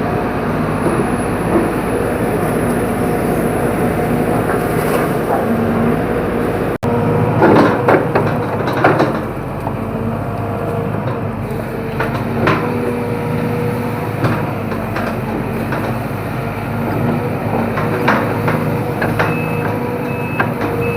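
Diesel engine of a tracked hydraulic excavator running steadily under load, with sharp cracks and snaps as bamboo is crushed: a cluster about eight seconds in and more around twelve and eighteen seconds. Short repeated beeps of a travel alarm start near the end.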